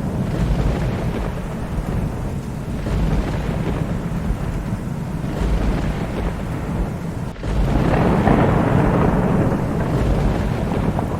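Thunderstorm: steady rain under a continuous deep rolling rumble of thunder. About seven seconds in the sound drops out for an instant, then a louder peal of thunder swells up and rolls on.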